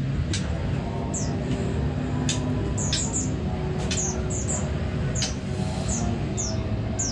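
Caged songbirds giving short, high chirps that slide downward, irregularly about two a second, over a steady background din.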